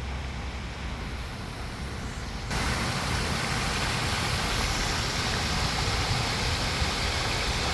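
Steady low rumble of a car on the move, with a louder, even hiss that starts suddenly about two and a half seconds in and holds steady.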